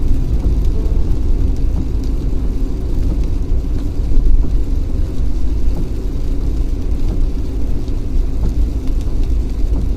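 A car driving in the rain: a steady low rumble of road and engine noise, with faint scattered ticks of raindrops.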